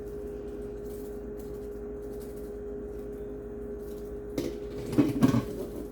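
Spoon clinking and knocking against a pot a few times near the end, over a steady low hum.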